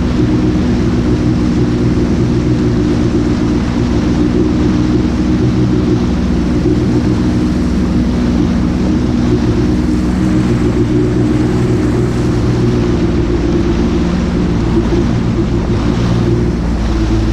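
Jet ski engine running at a steady speed over a constant rush of water and wind.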